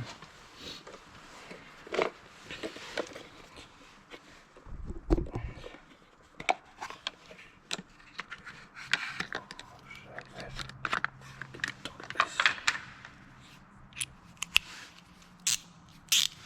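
Plastic interior door trim being levered loose with a pry tool: scattered sharp clicks, scrapes and snaps of plastic, with a dull thump about five seconds in.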